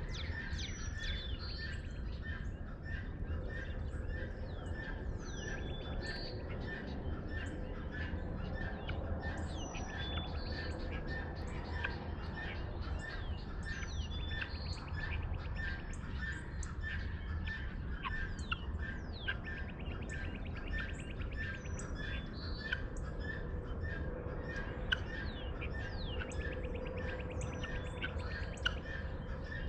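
Dawn chorus of several birds chirping and whistling, with one bird repeating a single note about twice a second throughout, over a steady low rumble.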